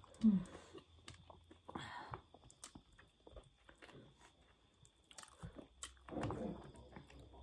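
Close-miked eating sounds: chewing and biting of chicken eaten by hand, with scattered small crunches and mouth clicks and a brief hummed 'mm' near the start.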